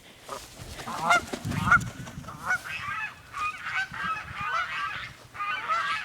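Flock of domestic geese honking, many short calls overlapping one after another.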